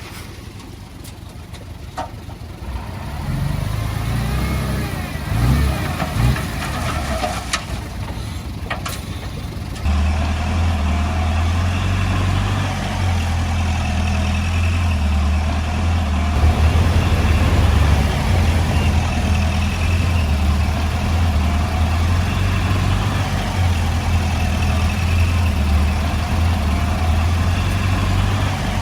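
Diesel engine of heavy earthmoving equipment running, quieter and uneven with a few knocks at first, then from about ten seconds in a steady, loud, low engine drone.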